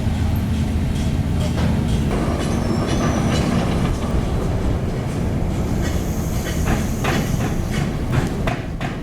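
Heavy construction machinery: a diesel engine running steadily under load, with high metallic squeals from about two seconds in and a run of sharp metal clanks near the end, like steel parts or track links working against each other.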